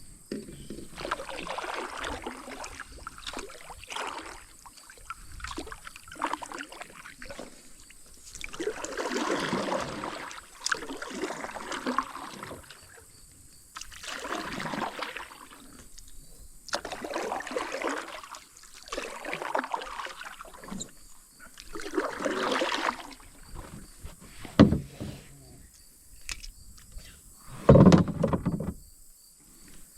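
Paddle strokes pulling through creek water, one swish every few seconds. Near the end come a few sharp knocks, the loudest one heavy and deep.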